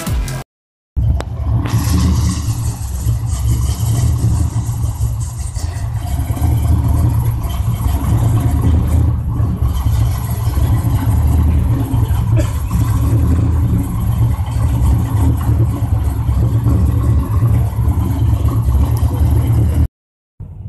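Mopar car engine running with a loud, steady low rumble. It starts about a second in and cuts off suddenly near the end.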